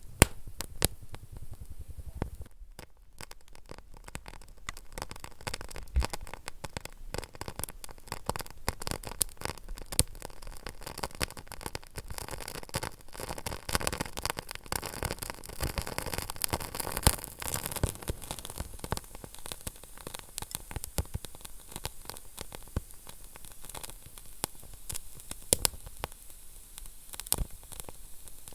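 Wood fire burning in a fireplace, with a steady low hiss and many sharp crackles and pops at irregular intervals.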